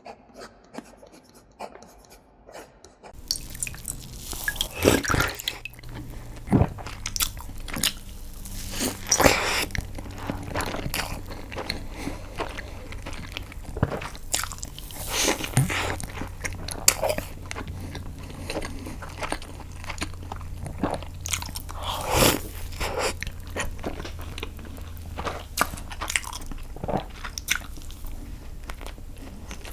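Close-miked eating: irregular bites and chewing, starting about three seconds in, over a low steady hum.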